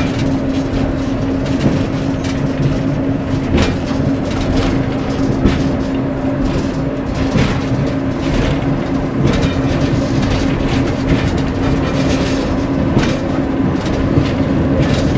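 Class 141 Pacer railbus running, heard in its driving cab: a steady engine and transmission hum over a low rumble, with frequent sharp clicks and knocks from the wheels on the track and the cab rattling.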